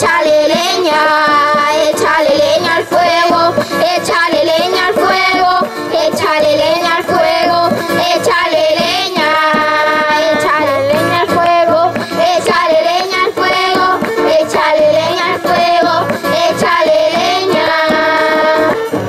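Children singing a church worship chorus, the song running on without a break.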